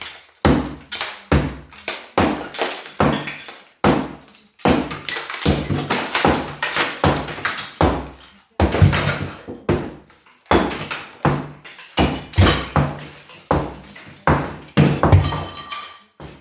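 A big hammer repeatedly striking the brickwork of a fireplace, breaking the bricks down: a steady run of sharp, heavy blows, roughly one or two a second, each with a short crumbling tail.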